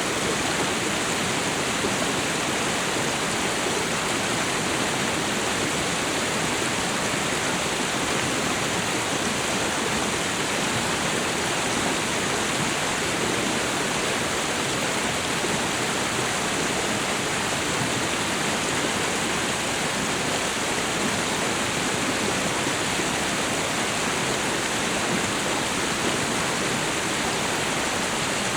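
Waterfall and river water rushing, a steady, even hiss with no breaks or changes.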